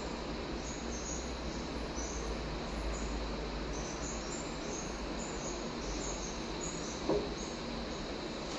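Steady background noise with a low rumble and many short, high chirps at an irregular pace, like insects or small birds; a single brief knock about seven seconds in.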